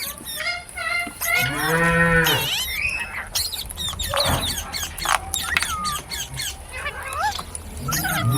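Parrots chirping and whistling in short rising and falling notes, with one long, low moo about a second and a half in.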